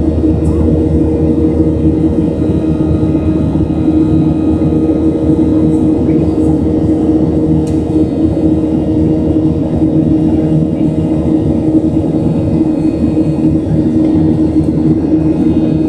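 Steady engine hum and airflow roar of a Boeing 737-700's CFM56-7B turbofans in the climb, heard in the cabin, with a few steady droning tones.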